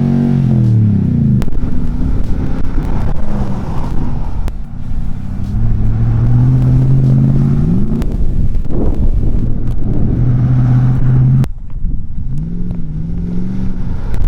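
Nissan Y62 Patrol's V8 running through a new dual 3-inch stainless exhaust with twin mufflers, revving and accelerating. The engine note drops after a rev about a second in, climbs again under acceleration, holds steady, stops abruptly, then rises and falls once more near the end.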